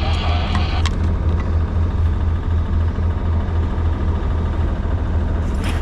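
Sailing yacht's engine running steadily under way, a low, even, pulsing rumble over the wash of water and wind.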